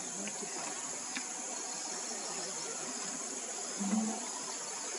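Steady, high-pitched chorus of crickets, with a brief low sound about four seconds in.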